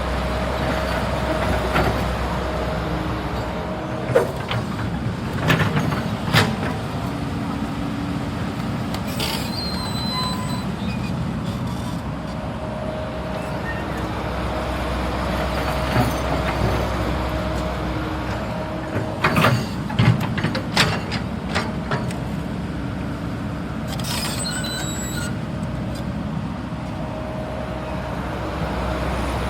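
CAT 320 GC hydraulic excavator working: the diesel engine runs steadily with a held whine. Metallic clanks and brief high squeals come at intervals, about four seconds in, around twenty seconds in and again near the end.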